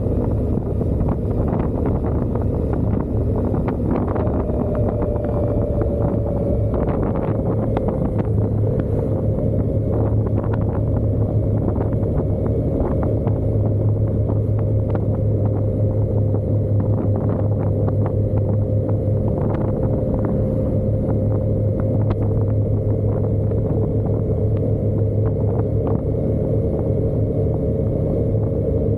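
Motorcycle riding at a steady speed: a constant low engine drone, with short gusts of wind buffeting the microphone.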